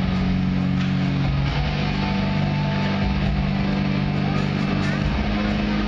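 Loud rock music with guitar over the arena sound system, mixed with the steady drone of several motorcycle engines held at even revs, shifting pitch a couple of times.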